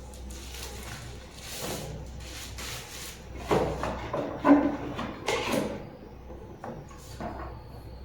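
Rustling and light knocks of a humidifier and its packaging being handled, with a louder cluster of rustling and clatter in the middle.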